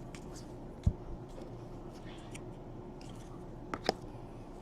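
Quiet handling noise of trading cards being sorted on a table: a dull low thump about a second in and two sharp clicks near the end, with faint ticks over a steady low hum.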